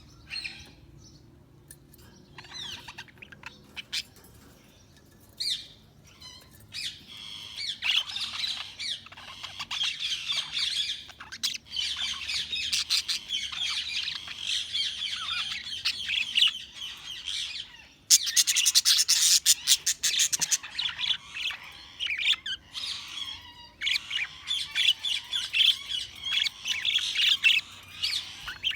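Budgerigars chirping and warbling: scattered single chirps at first, then continuous busy chatter from about a quarter of the way in, with a loud harsh squawking burst about two-thirds through.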